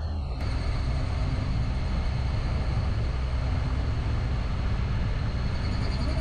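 Car driving along a road: a steady low rumble of engine and tyres. About half a second in, a brighter hiss joins it.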